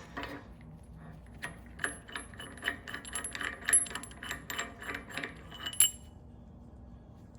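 Hand ratchet clicking in quick, uneven runs, several clicks a second for about four seconds, as a bolt with factory-applied thread locker is run in. The clicking stops about six seconds in.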